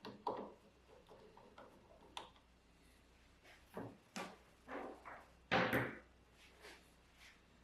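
A series of short knocks and clunks from objects being handled and set down, irregularly spaced, the loudest a little past halfway through.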